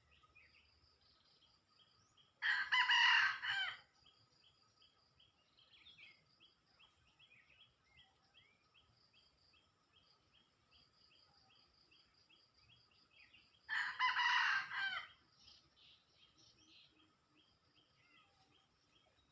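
A cockerel crows twice, each crow about a second and a half long, about eleven seconds apart. Between the crows, faint bird and insect calls go on, including a quick run of repeated high chirps.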